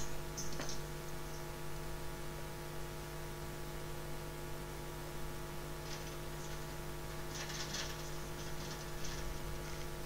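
Steady electrical hum, a fixed tone with overtones, with a few faint short crackles about six and seven and a half seconds in.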